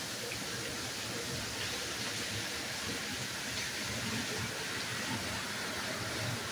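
Torrential rain falling steadily, a dense even hiss heard through a screened window.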